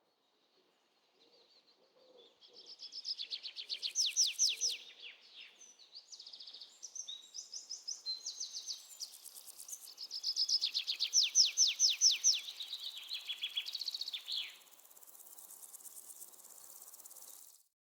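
Parrot chirping in fast runs of high, repeated notes, about eight to ten a second, in two loud bouts, then a softer rapid run that stops shortly before the end.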